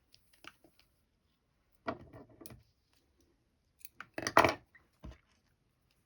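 Small sewing things being handled and set down on a table: a few short clatters and knocks, the loudest about four and a half seconds in, then a dull knock just after five seconds.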